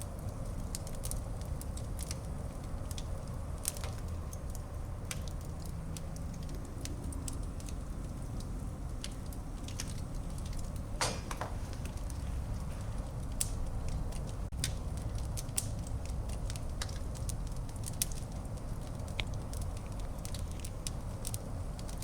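Fire burning in a fireplace: a steady low rumble of flames with frequent irregular crackles and snaps, and one longer, louder pop about halfway through.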